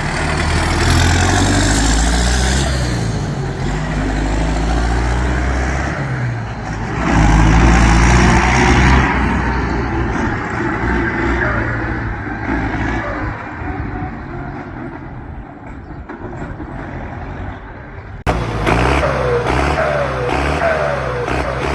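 Belarus 1025.4 tractor's turbocharged diesel engine revved up twice, a high turbo whistle rising with the revs and then a falling whine as it winds down. About 18 seconds in the sound cuts abruptly to the engine running again at steadier revs.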